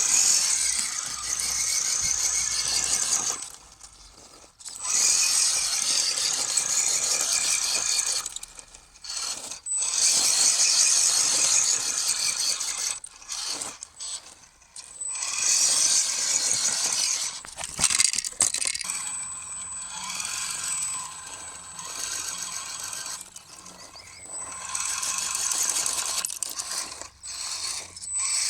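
Scale RC crawler GAZ-66 truck's electric motor and gearbox whining and grinding as it drives in stretches of a few seconds, stopping briefly several times and starting again.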